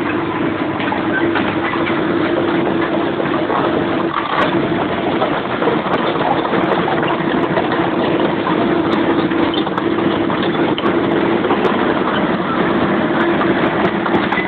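Heavy tow truck's engine running steadily with a constant low drone.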